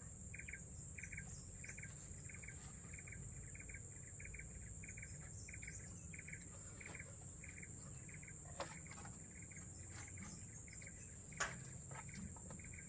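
Forest insects: a steady high-pitched trill, with a repeated short chirp about three times a second that fades out a little past halfway. A sharp click sounds near the end.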